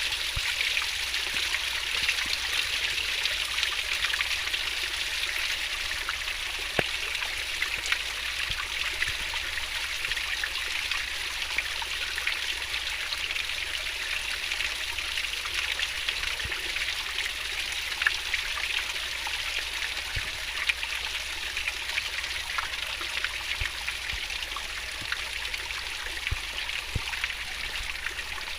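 A fast-flowing stream or river babbling and splashing over rocks, steady throughout, with many small splashes and drips over the continuous rush.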